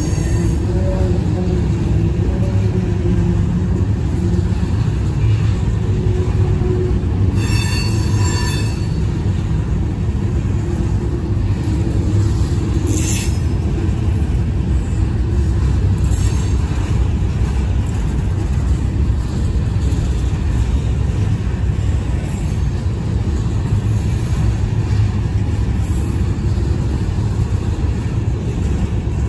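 Covered hopper cars of a freight grain train rolling past: a steady rumble and clatter of steel wheels on the rails. A brief high squeal of wheels comes about seven and a half seconds in, and a shorter screech near thirteen seconds.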